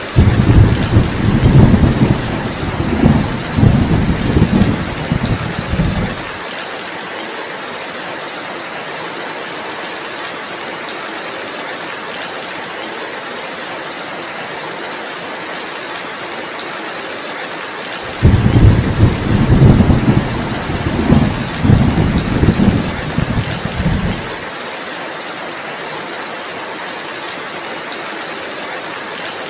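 Steady heavy rain hissing throughout, with two loud rolls of low rumbling thunder of about six seconds each: one right at the start and one about eighteen seconds in.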